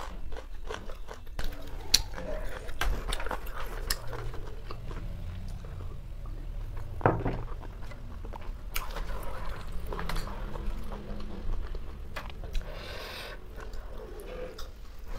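Chewing and eating roasted chicken: a continual run of wet mouth clicks and smacking, with a few sharper clicks, the loudest about two seconds and seven seconds in.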